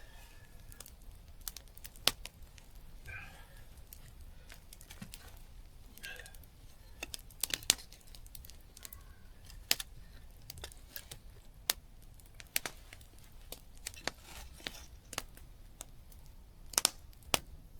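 Campfire crackling: scattered sharp pops and snaps, irregular, about one a second, with a louder pair near the end.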